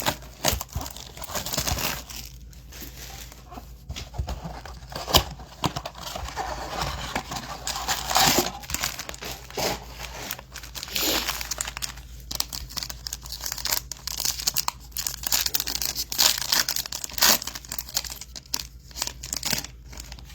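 Trading-card pack wrappers crinkling and tearing as a blaster box of cards is opened and its packs ripped open, with irregular rustles and sharp crackles.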